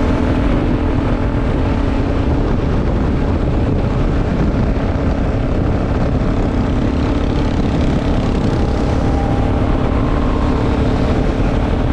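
Yamaha Ténéré adventure motorcycle's engine running at a steady cruise, with heavy wind and road rush over the microphone.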